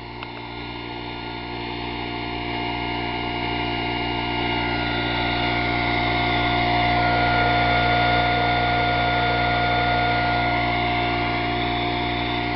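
25 cc four-stroke overhead-valve leaf blower engine running smoothly at full throttle on an experimental gasoline substitute fuel. It grows louder over the first several seconds, then holds steady.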